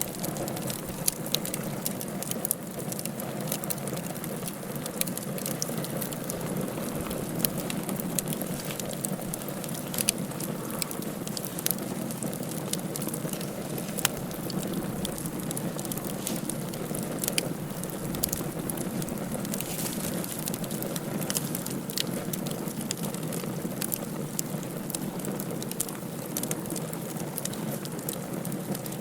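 Wood fire in a fireplace crackling steadily, with frequent sharp, irregular pops over a continuous low rushing hiss.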